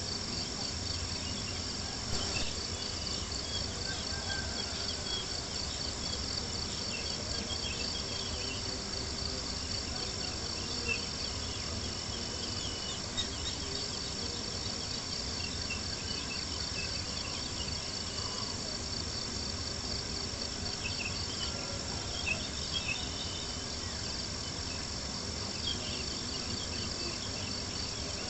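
Crickets chirping in a steady, rapid pulsing chorus, with the occasional sharp crackle and pop of a wood campfire scattered through it.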